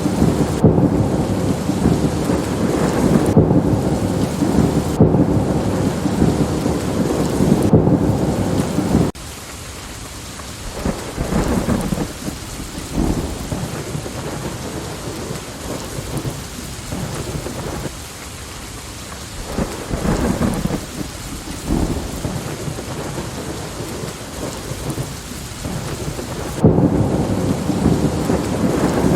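Steady rain with rolling thunder. A heavy low rumble runs for about the first nine seconds and cuts off abruptly, leaving lighter rain with a few short distant rumbles. The heavy rumble comes back suddenly near the end.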